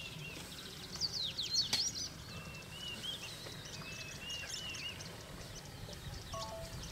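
Wild birds calling, with short quick whistled sweeps and a few warbling phrases, over quiet low background noise.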